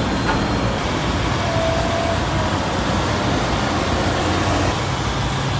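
Diesel engine of heavy machinery running steadily during the recovery of a stuck machine, with a faint brief whine about one and a half seconds in.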